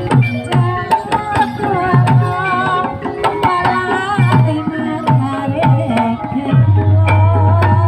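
Live Javanese gamelan music: kendang hand-drum strokes that drop in pitch, over ringing metallophone notes and a wavering melody line. A long low tone sounds near the end.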